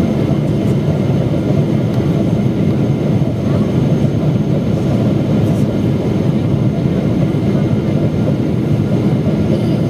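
Steady low rush of cabin noise inside a Boeing 777-300ER in descent: airflow over the fuselage and the drone of its GE90 turbofans, even and unbroken.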